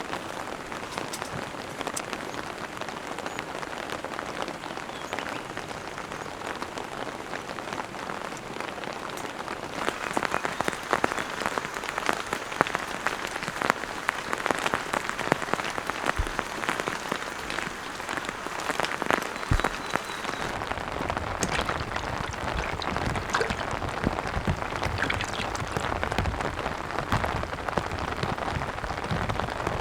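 Heavy rain falling, with the separate taps of drops hitting close by over a steady hiss. It grows heavier about ten seconds in, and a low rumble joins it after about twenty seconds.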